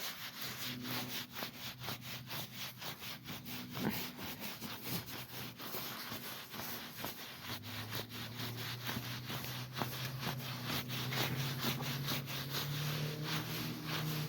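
A gloved hand rubbing and scratching an animal's coat in quick, regular strokes. About halfway through, a steady low hum comes in and slowly rises in pitch.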